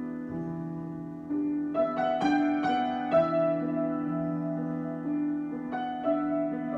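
Solo piano improvisation: slow, sustained chords, with a run of new notes struck between about one and three seconds in and another chord near the end, each left to ring.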